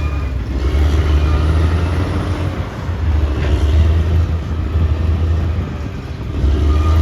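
Caterpillar D6R XL bulldozer's diesel engine running steadily with a deep drone, easing off briefly near the end before picking up again.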